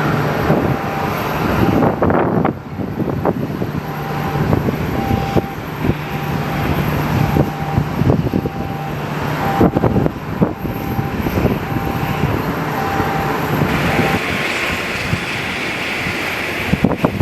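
Strong gusty wind buffeting the microphone, with the steady hum of an aircraft engine underneath that stops about fourteen seconds in.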